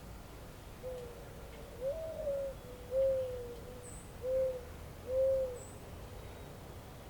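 A bird's low hooting call: a run of about five soft hoots over roughly five seconds, the second pitched a little higher than the rest. A faint high chirp from a small bird comes about four seconds in.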